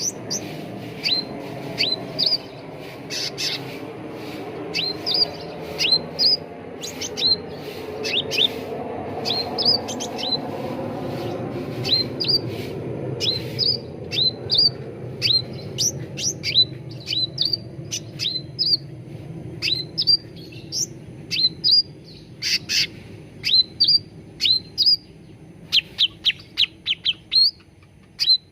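Cucak ranting birds calling in a rapid series of short, sharp chirps, each sweeping down in pitch, over a steady low background hum.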